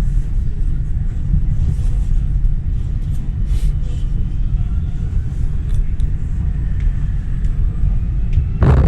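Steady low rumble of a commuter train running on the rails, heard from inside the carriage, with faint thin squeals and a few light clicks. A short, loud noise cuts in near the end.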